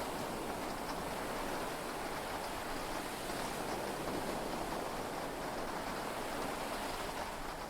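Heavy rain falling steadily on a yacht's cabin, heard from inside as an even hiss, with no thunder clap.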